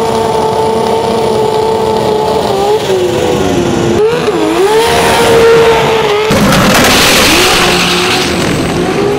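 Drag race car engine held at high revs, its pitch dipping and rising back as the throttle is blipped, with a loud rushing noise for about two seconds in the second half.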